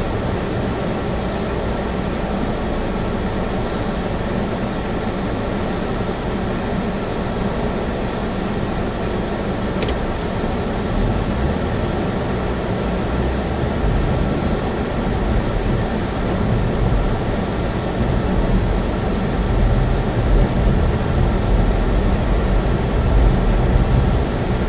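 Inside a Chevy Spark's cabin while driving: a steady rumble of engine and tyre noise, getting a little louder in the last few seconds, with one brief click about ten seconds in.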